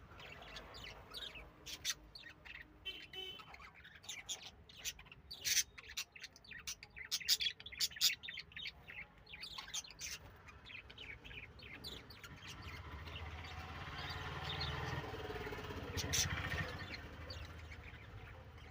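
Lovebirds chirping: a quick run of short, sharp chirps and tweets. In the last few seconds a steadier, louder noise builds up underneath the calls.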